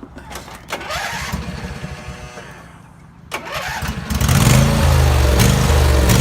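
Husqvarna YTH2348 riding mower's 23-horsepower engine being cranked by its starter, pausing briefly, then catching about four seconds in and running loudly. This is the engine that has a surging problem.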